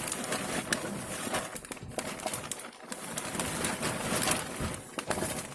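Crinkling and rustling of a plastic bivvy bag being handled, with many short crackles and clicks.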